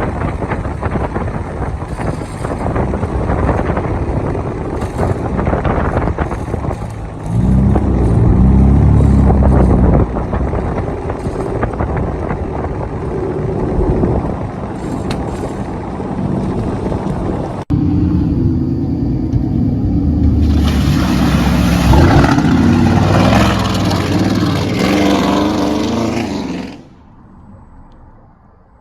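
Lifted trucks with loud exhausts revving and running, the engine note jumping up sharply about seven seconds in. Later a harsh hiss rides over the engines for several seconds before the sound drops away.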